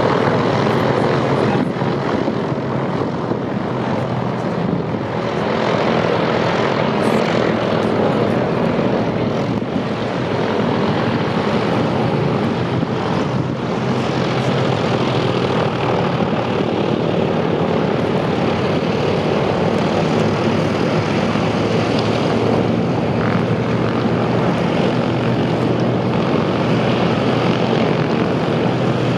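Radial piston engines of Douglas DC-3 Dakota and C-47 aircraft running steadily with a loud propeller drone.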